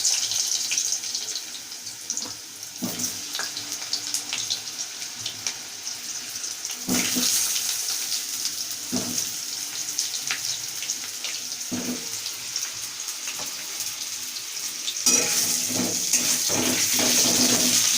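Cut potatoes frying in hot oil in a kadai: a steady sizzle with a few knocks and scrapes of a spatula against the pan. The sizzle grows louder near the end.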